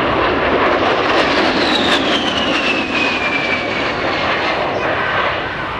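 Loud steady rush of an aircraft flying past, with a whine that falls in pitch from about a second and a half in.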